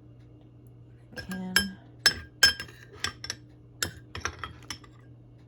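A metal spoon clinking and tapping against a dish while chili is spooned out, about a dozen sharp ringing clinks in a quick irregular run that starts about a second in and stops shortly before the end.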